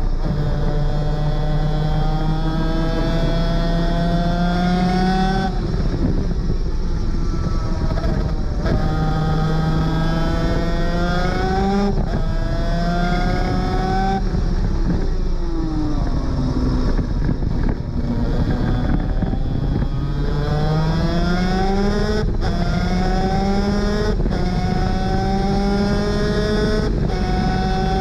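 A Superkart 250's two-stroke engine at full throttle on track, its pitch climbing through each gear and breaking off sharply at several upshifts. The pitch falls for a few seconds near the middle as the kart slows for a corner, then climbs again. A steady rush of wind and engine noise runs underneath.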